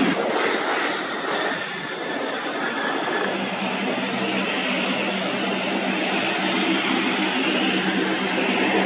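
Airliner engines running close by: a loud, steady rush with a low hum that comes in about three seconds in and a faint high whine above it.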